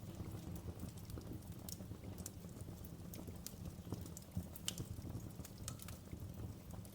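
Wood fire in a fireplace crackling: irregular sharp pops and snaps over a low steady rumble of the flames, with a louder pop near the middle.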